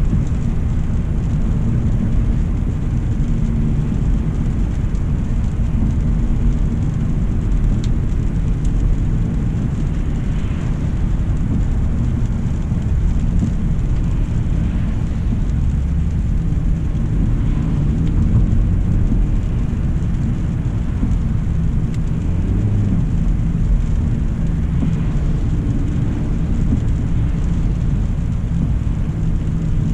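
Steady low rumble of a 2025 Hyundai Elantra SEL on the move: road and engine noise from the driving car.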